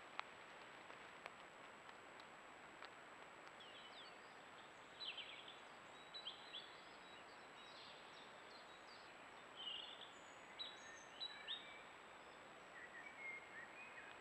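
Several songbirds chirping and whistling in short phrases from a few seconds in, over the steady hiss of a trail camera's microphone and a faint high electronic whine. There is a single sharp click right at the start.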